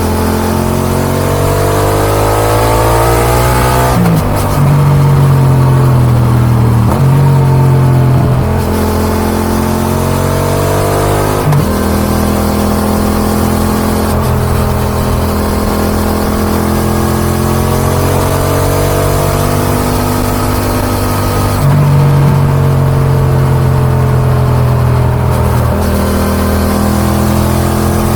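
Yamaha XSR700's 689 cc CP2 parallel-twin engine through an Akrapovic aftermarket exhaust, heard onboard while riding. Engine speed climbs and falls repeatedly, with abrupt pitch changes about 4, 8, 11 and 22 seconds in, and a steadier stretch in the middle.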